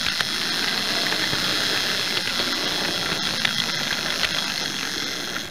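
Hornby Dublo 0-6-2 tank engine chassis running on 3-rail model railway track: the electric motor and gearing whir steadily, with light irregular clicks from the wheels on the rails.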